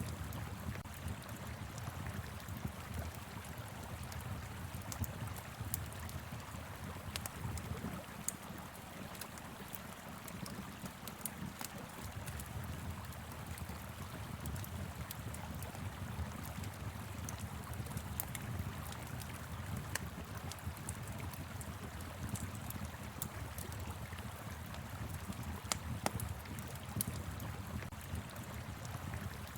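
Wood fire crackling, with irregular sharp pops and snaps, over the steady rush of a flowing river and a low wind rumble.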